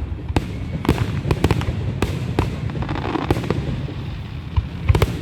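Fireworks going off, a dozen or so irregular bangs and cracks over a continuous low rumble, the loudest pair near the end.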